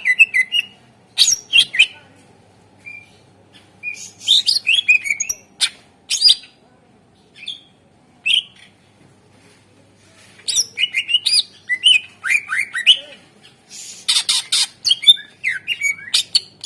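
Greater green leafbird (cucak ijo) singing: bursts of rapid, varied chirps, quick whistled glides and sharp harsh notes, delivered in short phrases with brief pauses between them.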